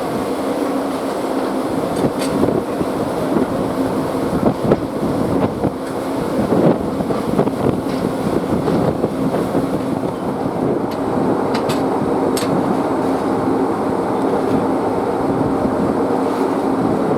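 An engine running steadily, with a constant low hum and mechanical clatter. There are a few sharp ticks about two seconds in and again around twelve seconds.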